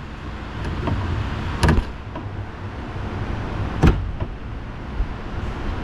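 Screwdriver or clip tool prying at a plastic clip on the door handle's linkage rod inside a 2018 Dodge Durango door: steady scraping and rustling, with two sharp clicks, one under two seconds in and another about two seconds later, as the tool slips and catches on the clip.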